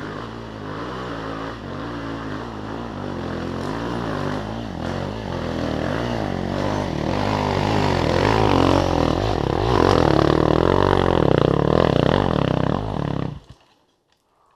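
Enduro motorcycle engine revving hard and unevenly as the bike climbs a loose dirt slope close by, rear wheel spinning and throwing dirt; it grows louder to its loudest as it passes. The sound cuts off abruptly near the end.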